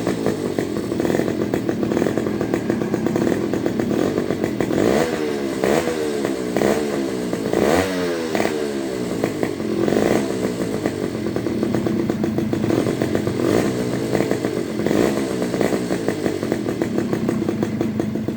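Suzuki Crystal 110cc two-stroke motorcycle engine running through its exhaust, idling with several quick throttle revs from about five to ten seconds in, the pitch rising and falling with each rev.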